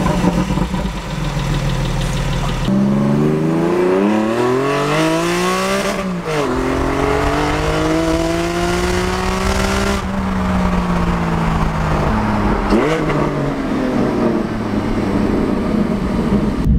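Porsche 718 GT4's naturally aspirated flat-six, run through an aftermarket exhaust, revving hard under acceleration. The pitch climbs steeply, drops at a gear change about six seconds in, then climbs again more slowly, before settling to lower, steadier revs with another brief dip near the end.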